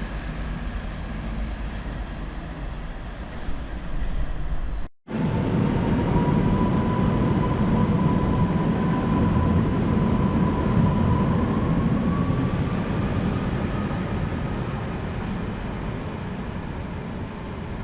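A train running through a station: steady rumbling, which breaks off for an instant about five seconds in. It then comes back louder, with a thin whine that rises a little in pitch, and gradually eases off.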